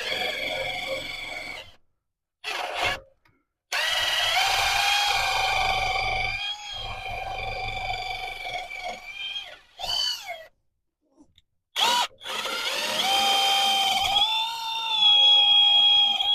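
Handheld power tool motor whining in several runs, its pitch shifting slightly up and down, each run starting and stopping abruptly.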